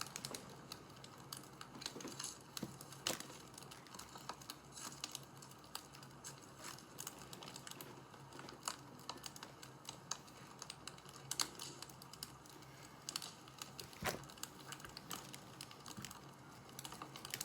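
Wood fire crackling: irregular sharp pops and snaps, some louder than others, over a faint steady low hum.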